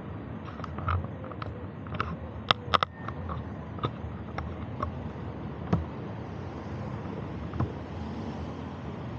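Riding noise on a bike ride: a steady rush of wind and road noise with irregular sharp clicks and knocks, loudest in a quick cluster about two and a half seconds in.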